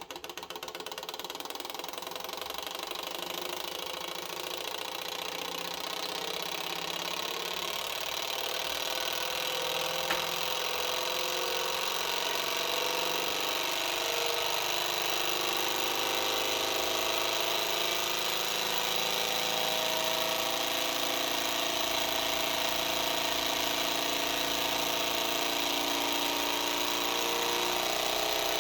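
Model Stirling engine heated on an LPG gas stove, running on an unlubricated bearing. Its running sound starts at once, grows louder and slowly rises in pitch over the first half, then holds steady over a constant hiss. A single click comes about ten seconds in.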